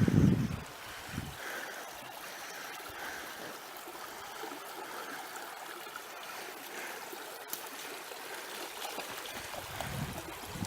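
Small stream running steadily with a trickling sound. A brief low thump at the very start is louder than the water.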